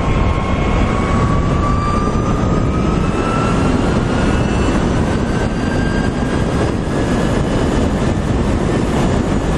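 LITO SORA electric motorcycle's motor whining under way: a thin whine that rises steadily in pitch as the bike speeds up, then holds, over heavy wind rush on the microphone.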